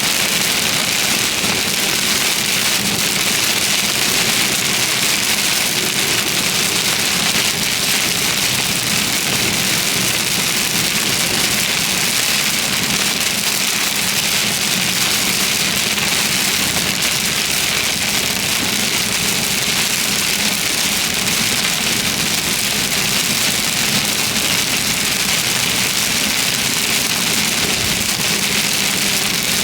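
Heavy thunderstorm rain falling steadily, an even hiss that never lets up.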